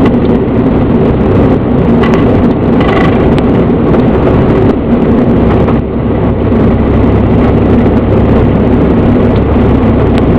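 Cessna 172's piston engine and propeller running steadily.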